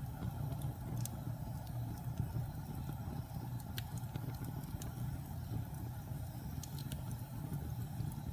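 Fireplace fire burning with a steady low roar and scattered sharp crackles and pops from the burning wood.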